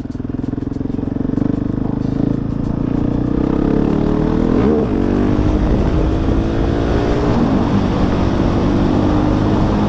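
Husqvarna 701 supermoto's big single-cylinder engine running under way, with wind noise; the engine note builds in the first couple of seconds and changes pitch briefly about halfway through.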